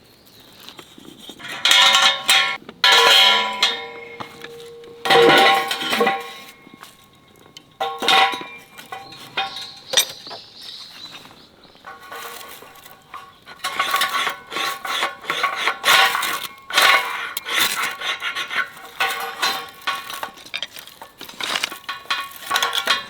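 Metal cookware and utensils clinking and scraping in irregular bursts, with short metallic ringing.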